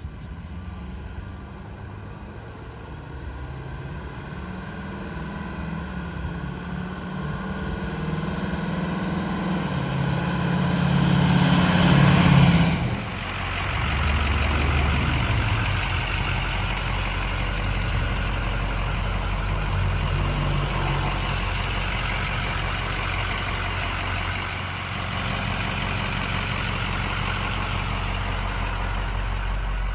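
Ford 6.0L diesel engine of a heavy-duty pickup truck running: it grows louder over about twelve seconds, drops off suddenly, then runs on steadily.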